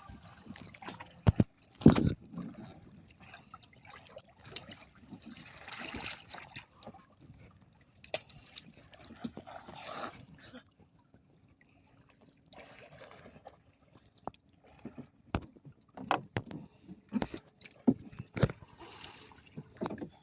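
Irregular knocks and bumps on a small fishing boat, the loudest about two seconds in, with several short splashes of water in between as the net is worked.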